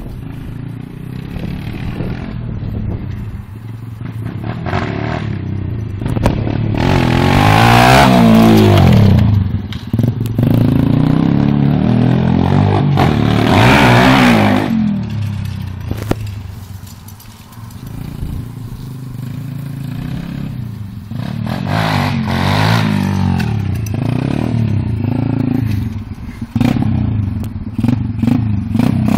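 Thumpstar 125cc single-cylinder four-stroke pit bike engine revving up and down repeatedly as it is ridden. It swells loudest about eight and fourteen seconds in and again after twenty seconds, and dips near the middle.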